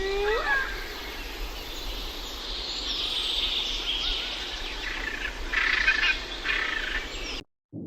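Birds calling: a single rising call right at the start, then a steady high chatter with a few short bursts of chirping about five to six seconds in.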